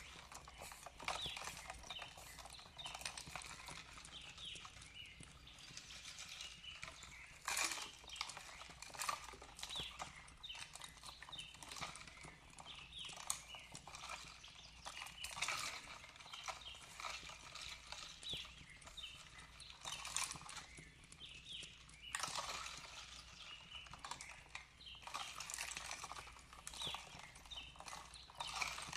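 Wood fire crackling, with frequent irregular pops and snaps, while small birds chirp in short notes in the background.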